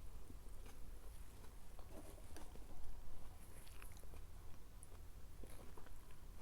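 Close-miked chewing of food, with wet mouth sounds and scattered small clicks.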